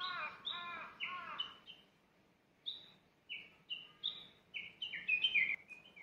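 Wild birds singing in the trees: short high whistled notes, some stepping down in pitch, repeat through the clip, with a lower, arched call repeated several times in the first second and a half.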